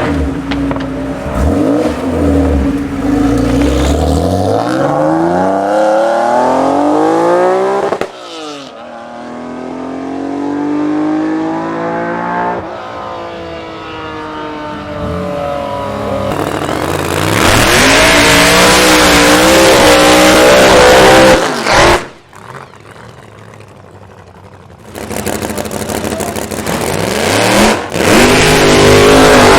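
Modified high-performance car engines accelerating hard in a run of short clips, their pitch climbing as they rev. One drops in pitch as it goes past, and the loudest stretches are full-throttle runs with a rushing noise over the engine note.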